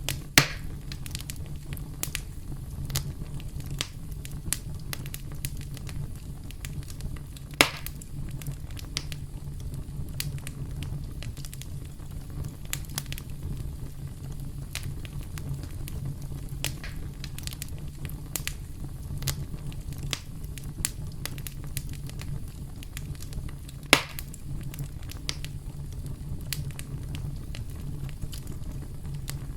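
Campfire crackling steadily over a low rumble of burning, with many small ticks. Three louder sharp pops come about half a second in, near eight seconds, and near twenty-four seconds.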